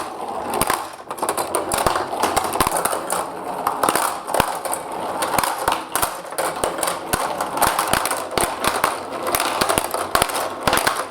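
Marbles rolling down a block marble run, a continuous rolling rumble with many quick clicks and clacks as they knock against the track and each other.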